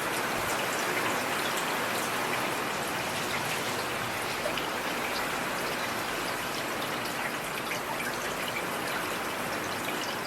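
Heavy rain falling steadily: a dense, even hiss with many separate drop impacts ticking through it.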